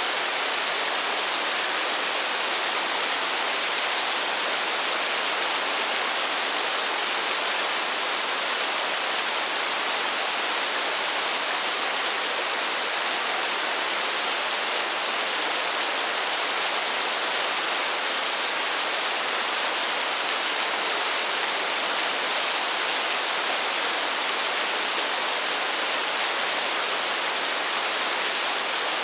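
Steady rain: an even, unbroken hiss, mostly in the upper range with little low rumble, and no single drops or thunder standing out.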